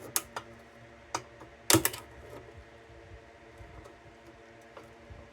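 A small screwdriver prying at a tight fitting on an old metal lantern gives scattered sharp clicks and scrapes. The loudest is a double click a little under two seconds in.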